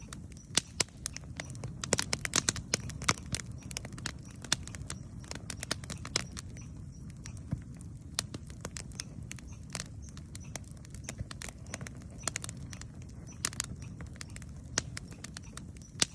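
Wood campfire burning: irregular sharp crackles and pops over a steady low rumble.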